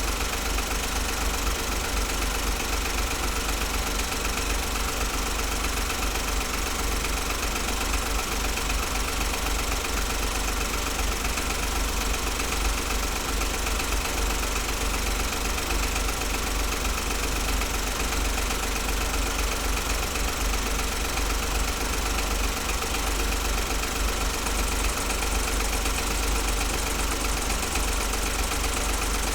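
2008 Smart ForTwo's 1-litre three-cylinder petrol engine idling steadily with a slight intermittent misfire.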